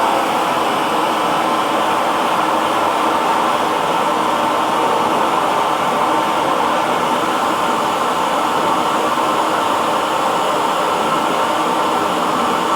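Hair dryer running steadily: an even whooshing blower noise with a faint constant motor hum.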